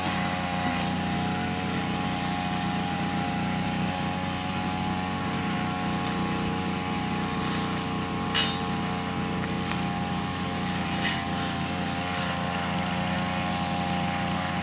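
Tanaka brush cutter's small two-stroke engine running steadily at a constant speed without stalling, its carburettor cleaned and re-adjusted. Two short clicks sound over it, about two and a half seconds apart, in the second half.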